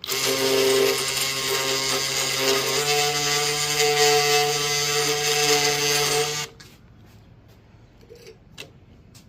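Dewalt 20-volt Atomic brushless oscillating multi-tool with a cutter head, running steadily while shaving off hardened CA glue. Its pitch steps slightly about three seconds in, and it stops after about six and a half seconds.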